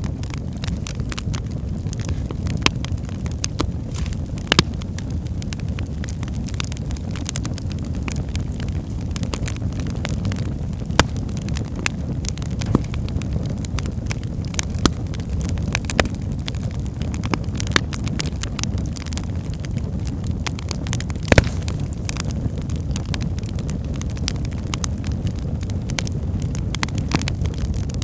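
Wood fire burning in a fireplace: a steady low rumble of flames with scattered crackles and pops of burning logs, one sharper pop about three-quarters of the way through.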